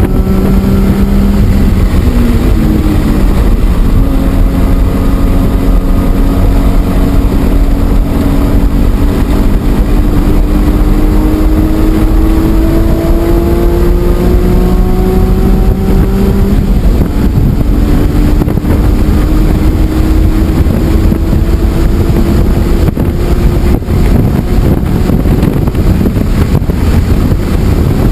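BMW E46 M3's straight-six engine pulling hard on track, heard from onboard. Its pitch dips near the start, climbs slowly for a long stretch, drops about halfway through and climbs again, with steady wind and road noise underneath.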